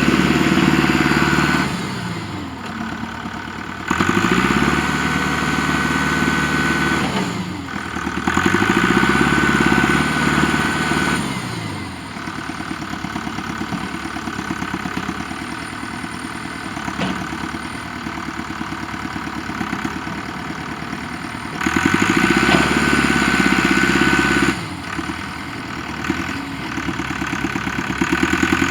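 Tractor engine working a front loader, revving up and dropping back again and again. It comes in louder spells of two or three seconds each, near the start, twice in the first half and once near the end.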